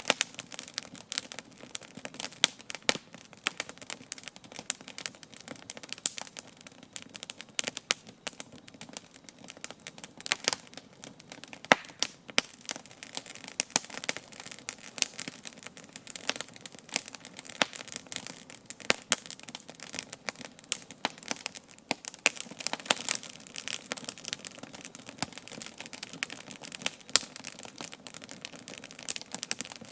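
Wood campfire crackling: a continuous run of irregular sharp pops and snaps from the burning logs, over a faint steady hiss of the flames.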